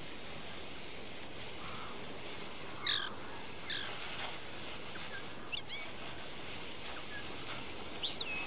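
Wild birds calling now and then over a steady background hiss: a few short, high chirps that bend in pitch, the loudest about three seconds in and others near four, five and a half and eight seconds.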